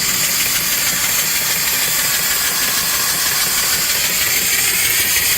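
Steady hiss of steam from a small wood-fired steam boiler and its reproduction antique steam engine running an alternator.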